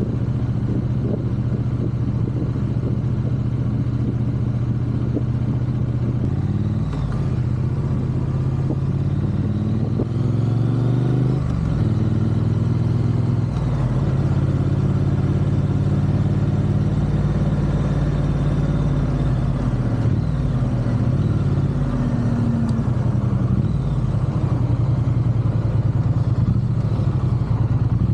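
Triumph parallel-twin motorcycle engine heard while riding: it pulls with rising pitch from about a quarter of the way in, changes gear with a sudden drop in pitch, then runs steadily at cruising speed.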